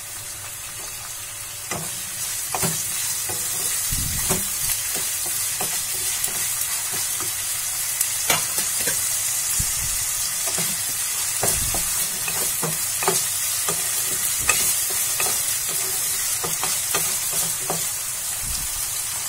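Chopped onion, garlic, ginger and green chilli sizzling steadily in hot oil in a kadhai, stirred with a wooden spatula that scrapes and knocks against the pan at irregular moments.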